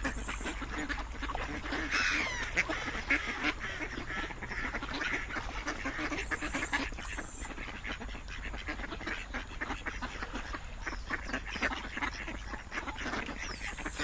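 Mallard ducks quacking and chattering in a dense, continuous run of short calls, with a falling call about two seconds in.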